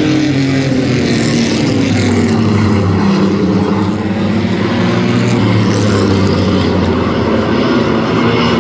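Engines of racing trucks running at speed around a short oval track, their pitch sagging and then climbing again as they go through a turn and back onto the throttle.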